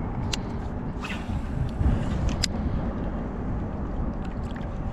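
Strong wind buffeting the microphone: a steady low rumble, with a few sharp clicks in the first half.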